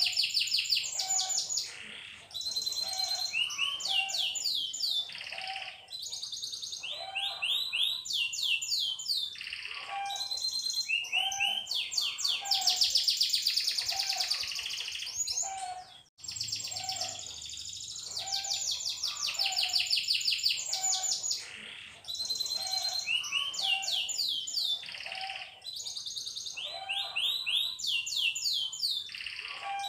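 Domestic canary singing: long rolling trills of rapid repeated notes, one run after another, with a brief break about sixteen seconds in.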